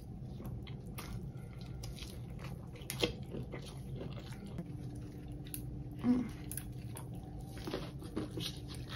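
Mouth sounds of biting into and chewing fried hot-Cheeto-crusted king crab legs: scattered short, sharp crunches and clicks over a steady low hum.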